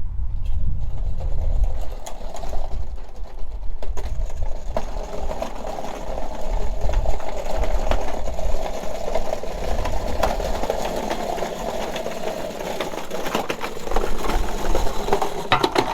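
A machine running with a fast, even mechanical clatter and scattered clicks.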